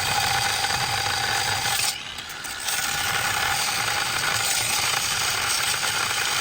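Metal lathe cutting a steel pulley: dense grating noise of the tool on the spinning workpiece, with a steady ringing tone. It drops off briefly about two seconds in, then resumes.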